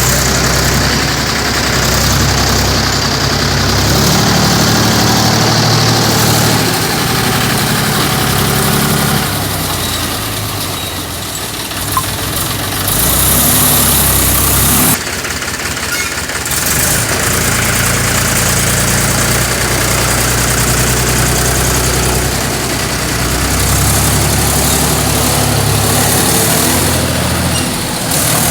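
Tractor engine running, its note rising and falling as it works. There is a loud hiss for about two seconds near the middle that cuts off suddenly.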